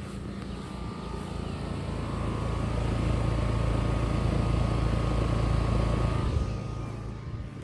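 A motor vehicle passing by, its engine and road noise swelling over a couple of seconds, holding, then fading near the end, over a steady low machine hum.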